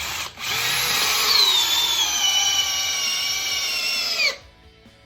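DeWalt DCD800 20V brushless drill in speed 2 driving a 10-inch TimberLOK screw into pressure-treated 4x4. A brief trigger blip is followed by about four seconds of motor whine whose pitch slowly sags under load, then it stops suddenly as the screw sinks fully.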